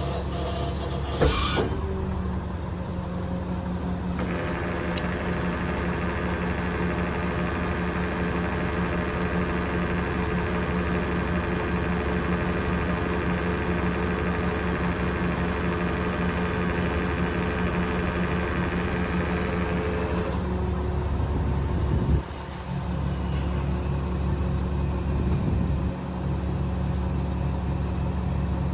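Cummins 8.9 inline-six diesel in a Kenworth T370 truck running steadily. A higher-pitched layer joins the engine at about four seconds and stops at about twenty, with a short drop in level just after.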